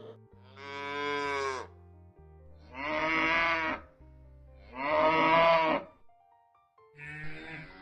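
A cow mooing: three drawn-out moos of about a second each, with a shorter, fainter one near the end, over soft background music.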